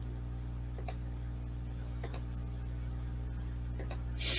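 A few faint computer mouse clicks, sparse and irregular, over a steady low electrical hum, with a brief soft rustle near the end.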